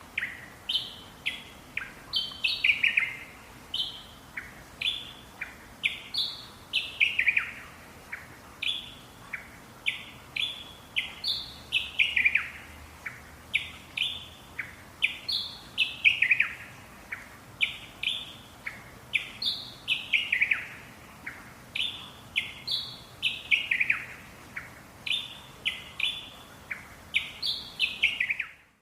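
A bird singing the same song over and over: short high notes that end in a quick falling run, repeated about every four seconds.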